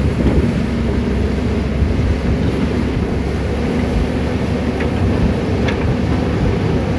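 CAT 320D hydraulic excavator's diesel engine running steadily under load, with a low rumble and a steady hum, and a few faint clicks about five seconds in.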